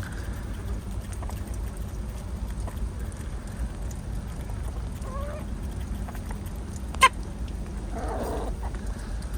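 Poultry making a few short calls over a steady low background rumble, with one sharp click about seven seconds in.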